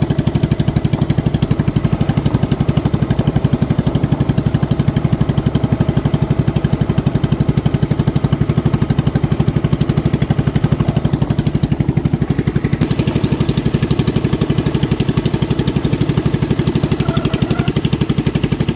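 A boat engine running steadily at speed, close by, with a rapid, even beat.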